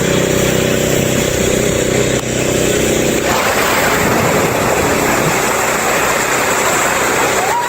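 A motor vehicle's engine running steadily at idle; about three seconds in, the sound changes to a loud, even rushing noise.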